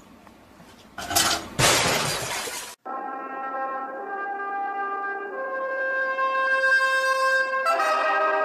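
Two loud crashes, like something breaking, about a second in, followed by brass-led music with long held notes.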